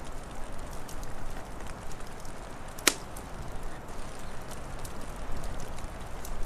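Wood fire crackling, with small scattered snaps over a steady noisy bed, and one loud, sharp pop about three seconds in.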